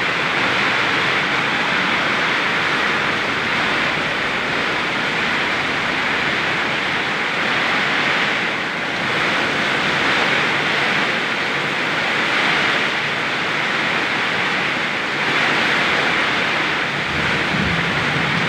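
Very heavy rain pouring in a strong windstorm, a dense steady hiss that swells and eases every few seconds.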